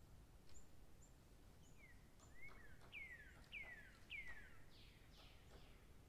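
A bird calling faintly: a run of about five clear whistled notes, each falling steeply in pitch, spaced a little over half a second apart, starting about two seconds in and fading near the end, with a few short high chips before them.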